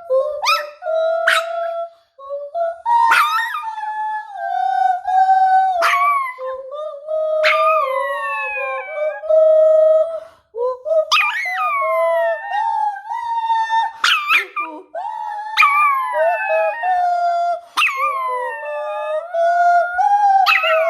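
A pet dog howling in a long run of drawn-out, wavering notes. Each howl opens with a quick falling yelp and then holds, about every one to two seconds.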